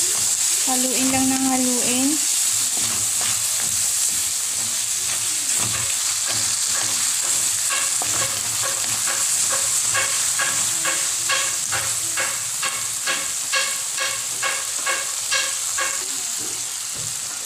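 Chicken, onion and tomato sautéing in hot oil in a wok, sizzling steadily while a wooden spatula stirs them. In the second half the spatula knocks and scrapes against the metal pan about twice a second.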